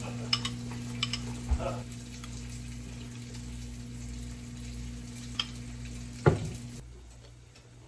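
Food frying in a pan, a steady sizzle with a few light clicks of a utensil and one louder knock about six seconds in; the sizzle cuts out shortly after.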